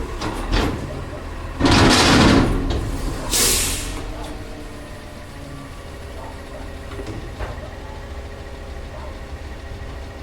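CCC LET2 garbage truck running at idle, with a loud noisy burst about two seconds in and a short high hiss about a second later, then a steady engine hum.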